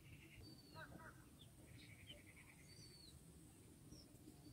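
Faint birds chirping: a few short calls and a brief rapid trill, over a quiet low background rumble.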